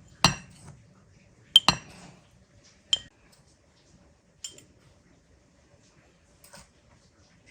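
A glass tumbler clinking against kitchenware while ingredients are measured out by the glass: about six sharp, ringing clinks spread through, the loudest two in the first two seconds.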